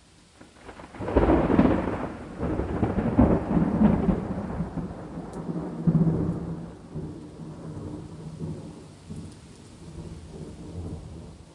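Thunder over faint steady rain: a clap breaks about a second in and rolls on as a loud rumble with several surges, the last about six seconds in, then slowly dies away.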